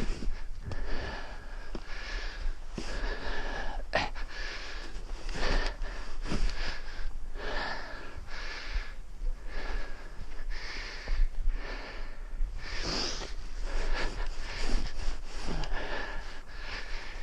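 A man breathing hard while shoveling snow, with repeated scrapes and knocks of the snow shovel; a sharp knock comes about four seconds in.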